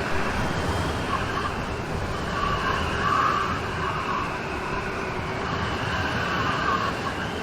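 Steady rain storm: an even hiss of heavy rain, with a higher, whine-like sound swelling and fading over it, strongest about three seconds in.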